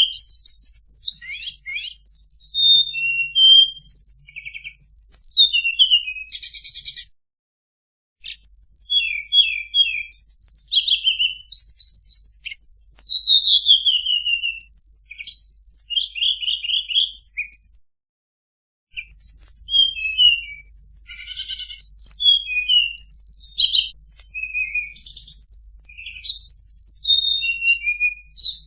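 Tledekan birdsong from a masteran (tutor) recording for cage birds: quick, varied phrases of high chirps, rapid trills and falling whistles, with short breaks about seven and eighteen seconds in.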